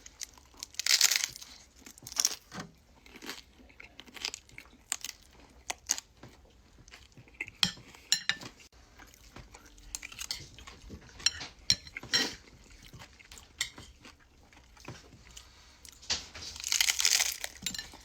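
Close-up eating sounds: chewing and crunching with many short sharp clicks. There are two louder crunching bursts, one about a second in and one near the end.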